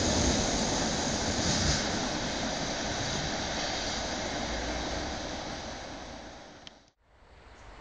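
Locomotive-hauled passenger train rolling away on the rails, its noise fading steadily as the last coach recedes. The sound cuts off suddenly about seven seconds in.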